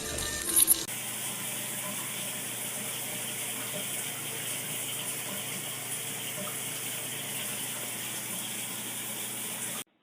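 Steady rush of running water, a tap-like hiss from about a second in, cut off abruptly near the end. In the first second there are a few loud, sudden sounds.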